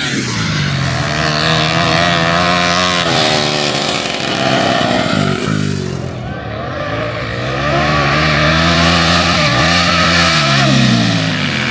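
Motorcycle engines revving hard and accelerating, the pitch climbing and dropping back with the gear changes, once in the first few seconds and again through the second half.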